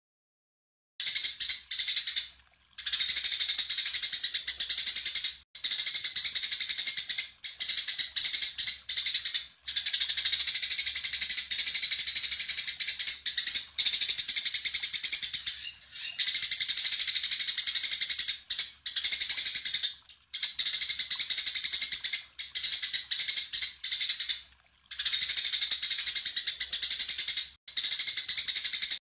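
A songbird singing a fast, dense stream of high chirps and trills in long runs broken by short pauses, over a faint low hum.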